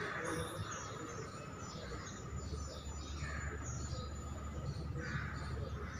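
Small birds chirping repeatedly in quick, short falling calls, over a steady low background rumble that grows louder about two seconds in.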